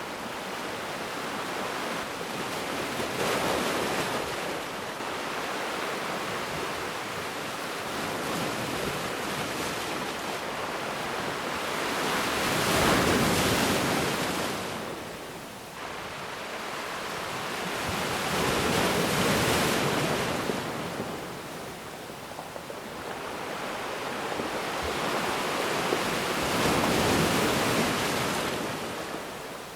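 Ocean surf washing onto a beach: a steady hiss of water that swells and fades as each wave breaks and draws back, about four big swells several seconds apart, the loudest about halfway through.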